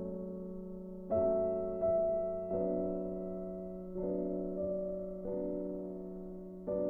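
Slow, soft piano music: gentle chords struck about once a second or more slowly, each fading away, over a low note that is held throughout.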